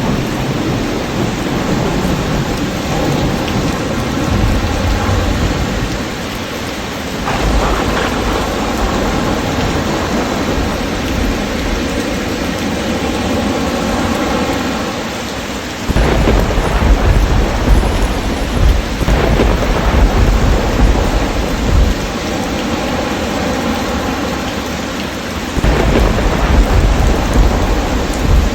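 Thunderstorm: steady rain hissing throughout, with deep thunder rumbling in spells that start suddenly about a quarter of the way in, just past the middle, and near the end.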